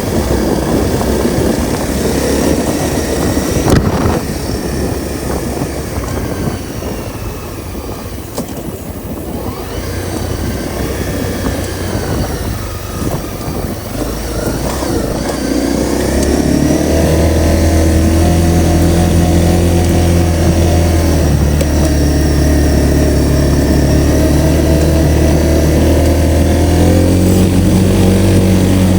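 Honda CRF250L's single-cylinder four-stroke engine running while riding, mixed with rough wind and road noise for the first half. From about halfway the engine note comes through steady and louder, stepping up slightly near the end.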